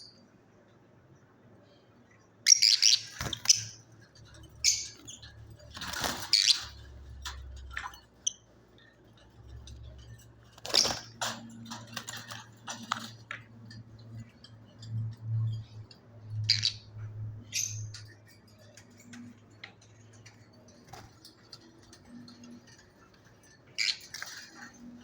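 Budgerigar chirping: short, high calls every few seconds, some in quick clusters, with pauses between.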